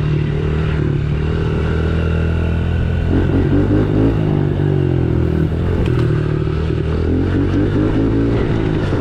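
A 110 cc dirt bike's single-cylinder four-stroke engine running under throttle while riding, its pitch rising and falling with throttle changes about three seconds in and again near the end.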